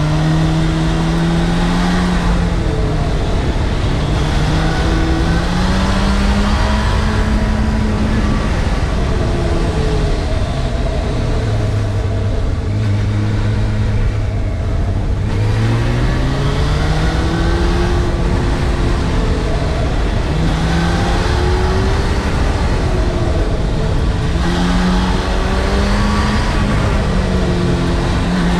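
Honda CBF600's inline-four engine heard onboard while riding, over steady wind rush. The revs climb and drop back repeatedly through gear changes, settle lower and steady for a few seconds around the middle, then climb again.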